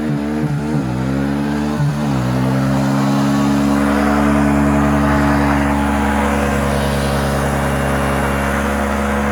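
Vehicle engine running at speed, its pitch wavering up and down for about two seconds and then held steady. The engine is running hot, with its overheat light on.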